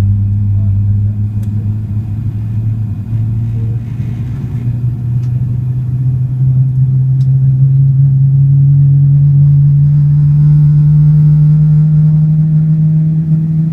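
Boeing 777-300ER's GE90 jet engines heard from inside the cabin, a loud low hum that rises slowly and steadily in pitch as the engines spool up, with a higher whine joining in during the second half.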